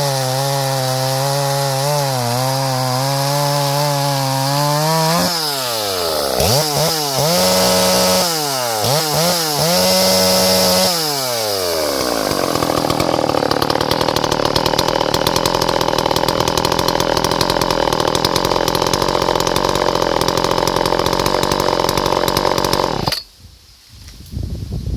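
Two-stroke chainsaw running at high revs. The throttle is then blipped several times, the engine note falling and rising, before a long steady run. It cuts off abruptly near the end.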